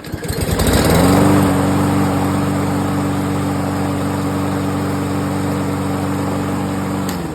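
Small gasoline engine cold-started after sitting for about six months, catching on the first crank. It revs up briefly, settles into a steady run for several seconds, then shuts off and dies away near the end.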